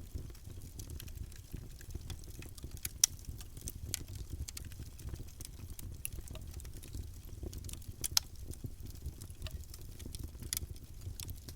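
Campfire burning: a steady low rumble of flames with frequent sharp crackles and pops of burning wood, a few louder snaps, the loudest about three seconds in and another near eight seconds.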